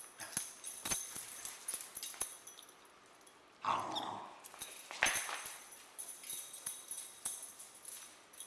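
Corgi moving about with many quick clicks and light jingling, and a brief dog vocalisation a little under four seconds in.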